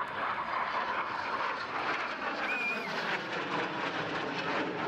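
Airplane engine noise from an aircraft flying an air-show display, a steady drone with no change in level. A brief faint wavering chirp sounds about halfway through.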